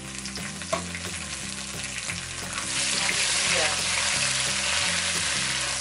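Garlic, ginger and dried chillies sizzling in hot oil in a non-stick wok as a wooden spatula stirs them, frying until fragrant. There is one sharp tap near the start, and the sizzle grows clearly louder about halfway through.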